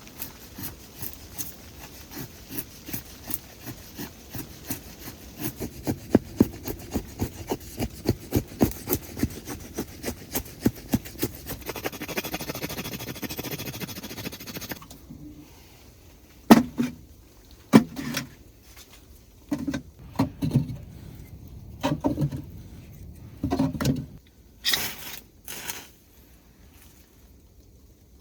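Hand saw cutting wood with steady back-and-forth strokes, about two a second and growing louder, then a few seconds of continuous rasping. After that come a series of separate wooden knocks.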